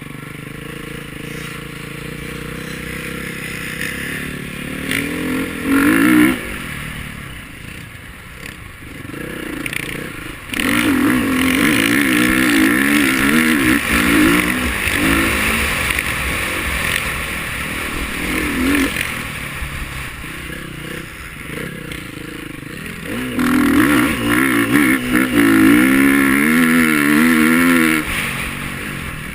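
KTM 350 XC-F's single-cylinder four-stroke engine revving up and down as the bike is ridden, its pitch wavering as the throttle opens and closes. There is a brief loud burst about six seconds in, then two long, loud stretches on the throttle, one starting about ten seconds in and another near the end, with quieter off-throttle stretches between.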